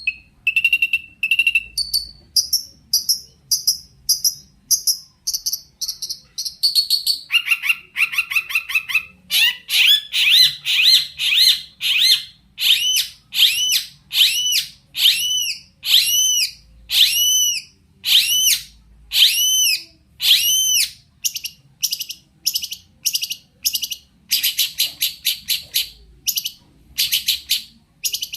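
Long-tailed shrike (cendet) singing a continuous, varied song full of mimicked phrases: quick runs of chirps and whistles that change pattern every few seconds, with a long series of repeated looping whistles, about one and a half a second, in the middle and fast chattering notes near the end.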